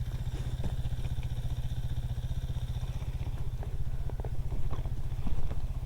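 A dirt bike engine idling with a steady low putter, with scattered light clicks and knocks over it.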